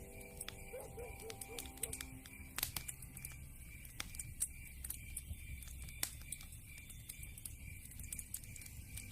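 Wood fire crackling: irregular sharp pops and snaps of burning logs, with a couple of louder cracks, one about two and a half seconds in and another about six seconds in.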